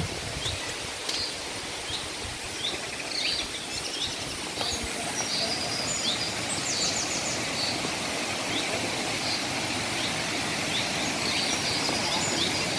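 Steady rush of a waterfall, with small birds chirping and giving quick trills over it again and again.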